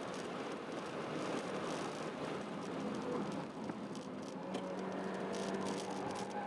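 Honda Jazz 1.3 four-cylinder engine running hard, heard from inside the cabin over steady tyre and wind noise, with light rattling from the interior. About four and a half seconds in, the engine settles into a steady, even note.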